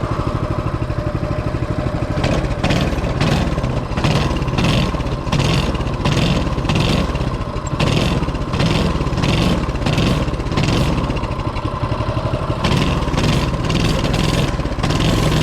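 Mini bike's small engine running just after starting, surging up and down in a regular rhythm about every two-thirds of a second from about two seconds in.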